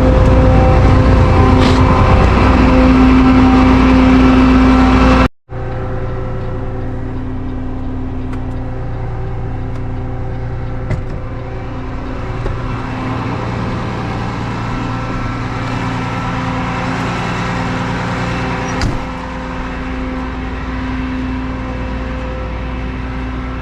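Truck engine running steadily with an even hum. About five seconds in it cuts off abruptly and resumes a little quieter.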